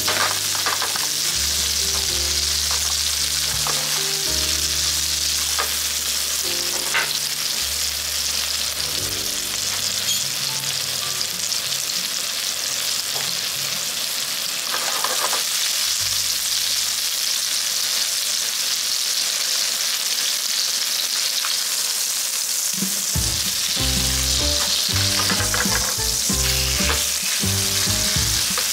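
Chicken thighs, butter and eringi and shiitake mushrooms sizzling in a frying pan over low heat: a steady frying hiss.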